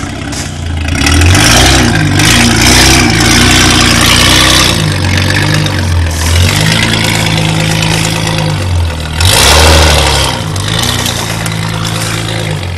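Off-road Nissan Patrol's engine revving hard under load in mud, in repeated bursts that rise and fall in pitch. The loudest bursts come from about a second in until nearly five seconds, and again about nine seconds in.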